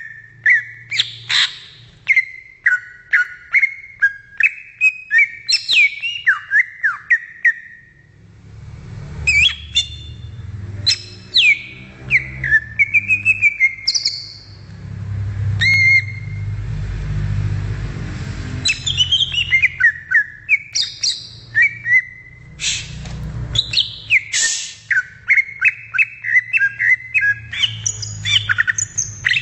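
Cucak ijo (green leafbird) singing: rapid strings of loud, sharp whistled notes, many sliding downward. About 8 seconds in, the song breaks off into a low rumble with a few scattered calls, then resumes about 19 seconds in.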